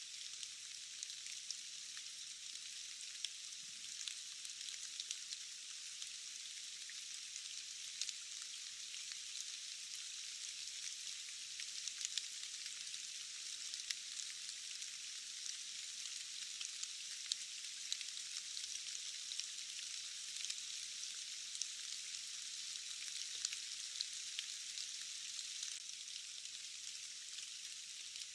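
Steady rain hiss with many small drop ticks scattered through it, thin and bright with no low rumble.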